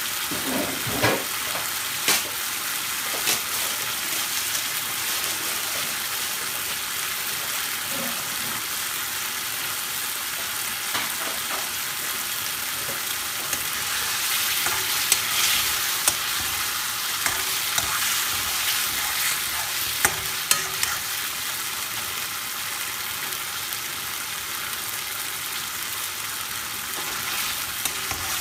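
Chicken karahi curry sizzling in a metal karahi, a steady frying hiss, while a metal ladle stirs and scrapes through it. Sharp clicks of the ladle against the pan come a few times near the start and in a cluster about halfway through.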